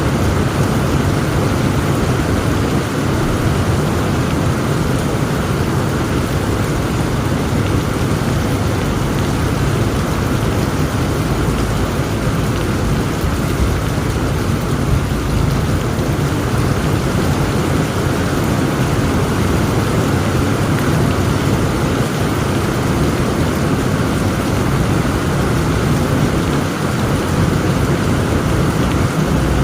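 Heavy rain falling steadily in a thunderstorm, with a low continuous rumble of thunder underneath.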